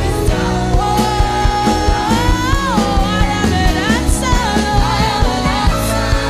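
Live worship band playing with drums and a sustained, wordless melodic line, likely a voice held and sliding in pitch.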